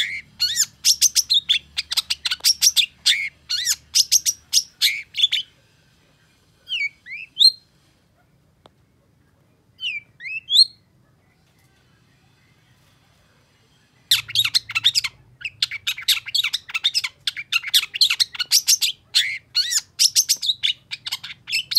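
Long-tailed shrike singing a fast, dense run of chirps that stops about five seconds in. Two short pairs of rising call notes come in the pause, and the rapid song starts again about fourteen seconds in.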